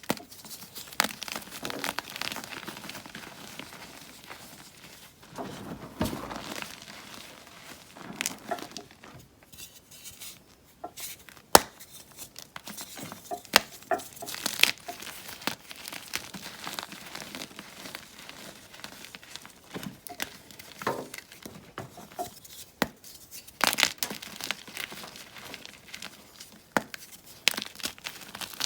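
Blocks of gym chalk being crushed and crumbled by hand, making irregular crunches and crackles, with a few sharper snaps near the middle.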